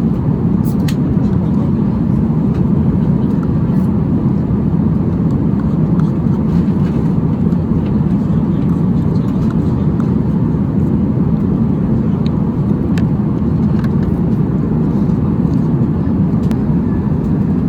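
Steady low rumble of an airliner cabin, engine and airflow noise with no change in level, with a few faint clicks.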